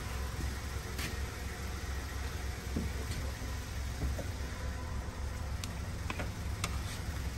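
Car engine idling steadily, with a few light clicks from a cable and the door being handled.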